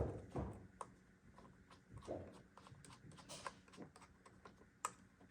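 Light, scattered clicks and taps with a few soft rustles, from hands handling computer parts during a PC build.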